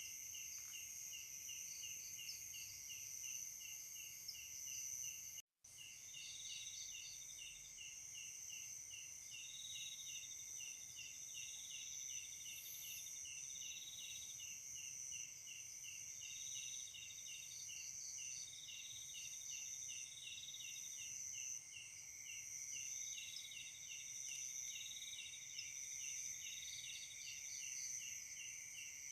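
Dense chorus of night insects such as crickets, with several high trills running at once. One trill pulses rapidly, and a shorter trill about a second long repeats every few seconds. The sound cuts out completely for a moment about five seconds in.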